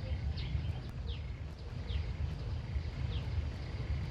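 A bird repeating a short, falling chirp every second or so, over a steady low rumble.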